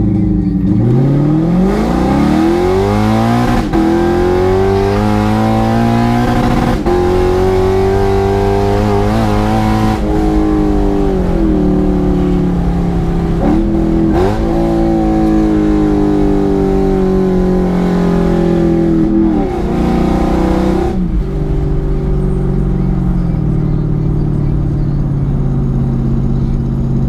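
2015 Lexus RC F's 5.0-litre V8, breathing through PPE headers and a GTHaus Meisterschaft exhaust, accelerating hard: the engine note climbs in pitch through each gear and drops at several quick upshifts. It then settles into a steady, lower drone near the end.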